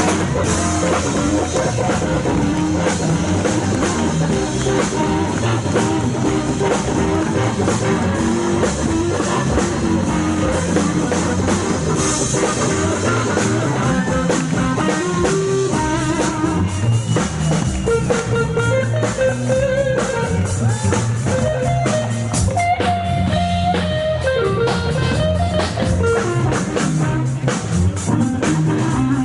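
Live hill country blues band playing an instrumental break: a lead electric guitar, built from a car muffler, plays bending notes over rhythm guitar and a drum kit.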